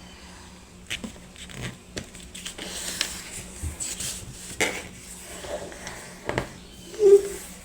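A sheet of paper being handled and folded, with scattered rustles and crackles as it is creased, and a short louder thump about seven seconds in.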